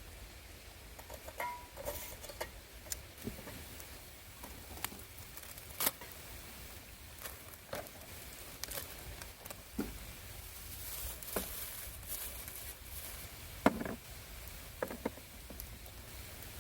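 Scattered light clicks, taps and knocks of objects being handled, several seconds apart, with a sharper knock about fourteen seconds in, over a steady low rumble.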